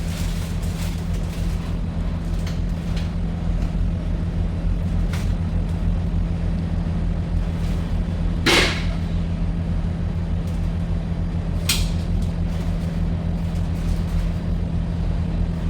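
Truck engine running steadily with a low drone. A short hiss about eight and a half seconds in and a briefer one near twelve seconds.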